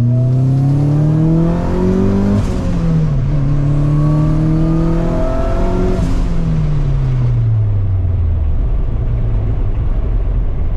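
Turbocharged Mazda Miata four-cylinder engine pulling hard under boost. The revs climb, drop sharply about two seconds in, climb again, then fall away steadily from about six seconds as the throttle comes off. A short hiss sounds at each drop.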